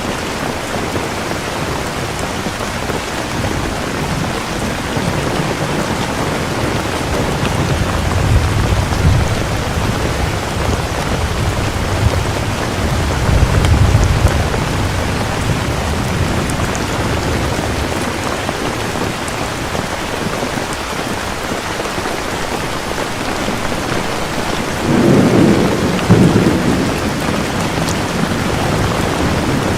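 Steady heavy rain with thunder rumbling low three times: around 8 and 13 seconds in, then a louder roll about 25 seconds in.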